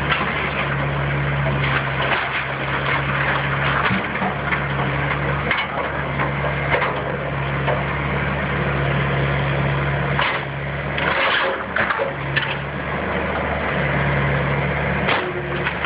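A heavy demolition machine's engine runs steadily while wood of a house frame crunches and cracks as it is torn apart, with many sharp snaps throughout.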